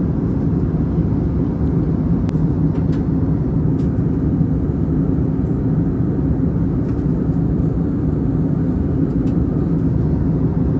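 Airliner cabin noise: a steady, unchanging low rumble of the jet engines and airflow heard from inside the cabin, with a few faint light ticks.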